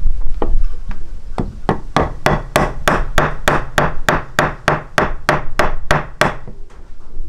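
A steady series of sharp knocks, about three a second and some eighteen in all, starting about a second and a half in and stopping near six seconds, over a low rumble.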